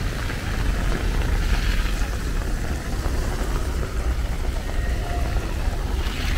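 Steady hiss of rain falling, with an uneven low rumble underneath.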